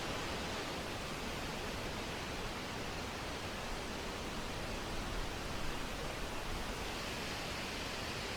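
Wind blowing steadily as an even rushing noise, swelling slightly in a gust about five seconds in.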